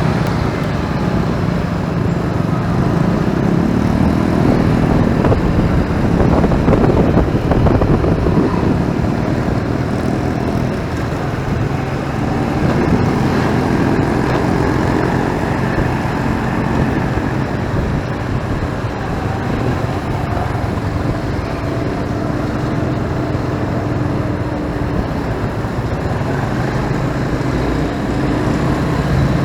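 Motorcycle riding in heavy road traffic: its engine running steadily with the pitch drifting up and down, mixed with the noise of surrounding cars and motorbikes.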